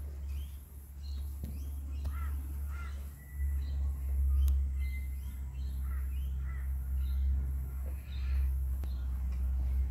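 Birds calling over and over outdoors, short repeated calls, over a steady low rumble of wind on the microphone.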